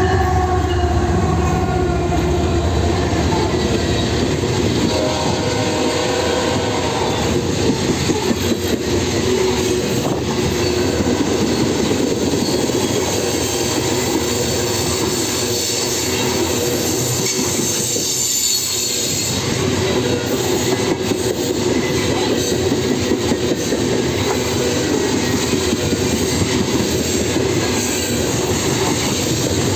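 Loaded coal train passing close by: the GE ES44AC and AC44C6M diesel locomotives go past in the first seconds, then heavy coal hopper cars roll by with a steady rumble, wheels clicking over the rail joints. A thin high-pitched wheel squeal rides over it through roughly the middle of the train's passing.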